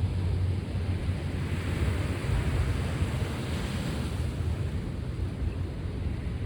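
Sea waves washing on the shore, one wash swelling and fading in the middle, with wind buffeting the microphone.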